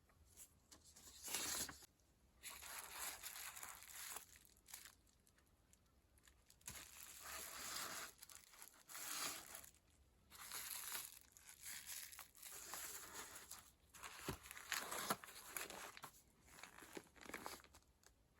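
Rustling and crinkling in repeated bursts of a second or two, separated by short pauses, with a few sharp knocks about fourteen seconds in.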